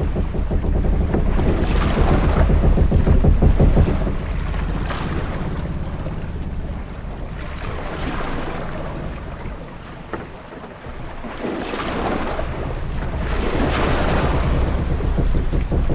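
Ship-at-sea ambience: waves washing against a sailing ship with wind and a deep rumble, the wash surging every few seconds. The rumble eases around ten seconds in, then builds again.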